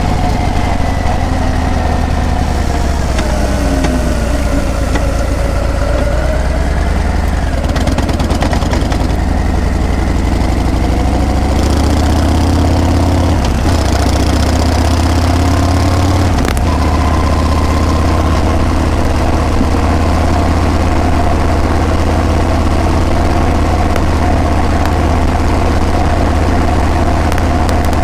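Harley-Davidson Breakout's V-twin exhaust while riding at a steady cruise, its pitch dipping and climbing back a few seconds in as the revs fall and rise.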